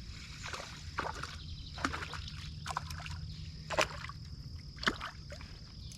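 Water sloshing and lapping at a kayak, with a few short, irregular splashes over a steady low rumble.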